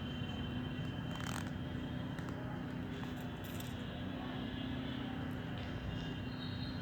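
Honeybees buzzing in a steady hum over a low rumble, with a couple of faint clicks about a second in and again midway.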